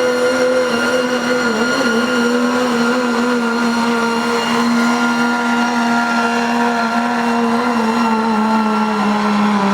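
Diesel pulling truck's engine held at high revs under full load as it drags the pulling sled, its pitch nearly steady with a brief wobble about two seconds in and a slight dip near the end.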